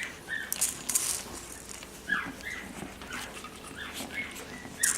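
Shih Tzu puppies at play, giving short high whines and yips, with scattered sharp clicks.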